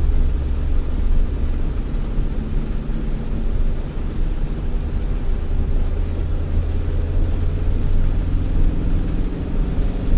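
Honda Elevate being driven on a wet road: a steady low rumble of engine and tyre noise with an even hiss over it.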